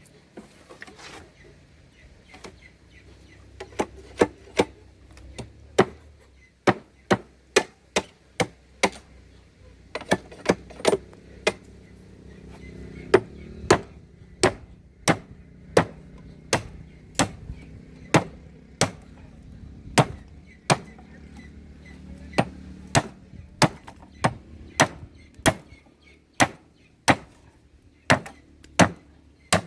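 Blade chopping in a long run of sharp, evenly spaced strokes, about one and a half a second, beginning in earnest a few seconds in.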